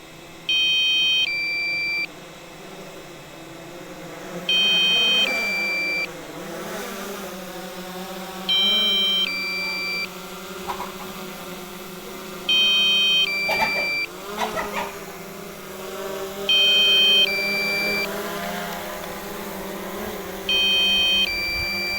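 DJI drone flight app or remote controller sounding a repeating warning: a two-part electronic beep, a higher chord then a lower tone, about 1.5 s long and repeated about every four seconds. Under it runs the steady hum of the Mavic Pro quadcopter's propellers.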